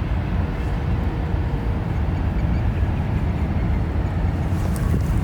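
Jet airliner engines, a steady low rumble.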